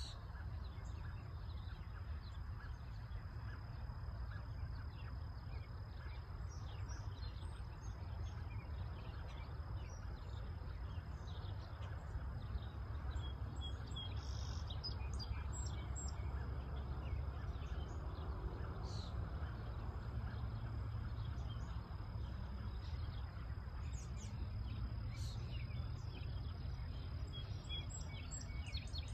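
Open farmland ambience: scattered short bird chirps over a steady low rumble, with a thin, steady high-pitched tone.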